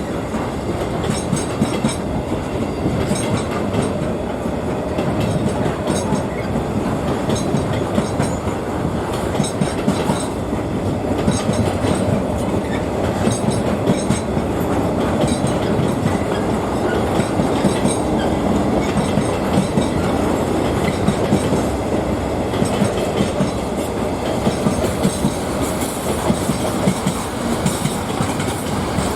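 Train running on the rails: a steady rumble with repeated clicks of wheels over the track.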